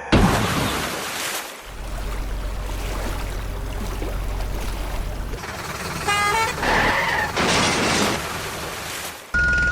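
Cartoon vehicle sound effects: a loud crash-like hit at the start, then a steady low engine hum, and a short horn toot about six seconds in, followed by a few brief noisy bursts.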